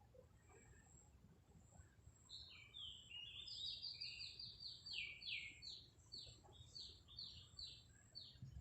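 A bird chirping, faint, in a quick run of short, high, slightly falling notes that starts about two seconds in and goes on for about six seconds.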